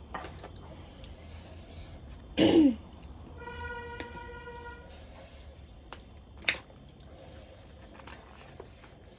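A person clears their throat once, a short loud sound falling in pitch about two and a half seconds in. A steady held tone follows for about a second and a half, and a sharp click comes a few seconds later.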